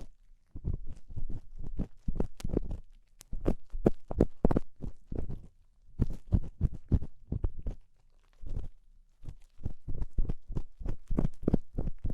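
Ear-cleaning tool scratching and scraping inside the ear of an ear-shaped ASMR microphone, close and crackly, in quick runs of short strokes broken by brief pauses.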